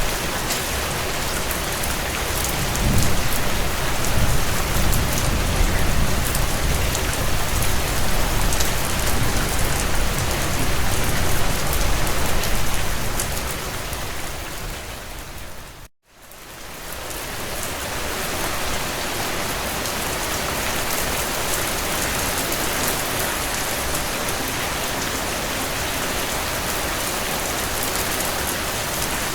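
Heavy rain drumming steadily on a tin roof, with a low rumble of thunder through the first half. About sixteen seconds in, the rain fades down to silence, then swells back up over a couple of seconds.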